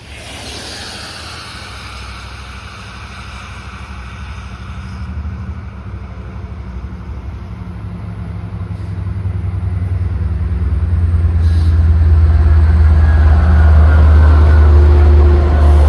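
LIRR DM30AC diesel locomotive at the head of an arriving train, its low engine drone growing steadily louder over the whole stretch as it draws closer and is loudest near the end.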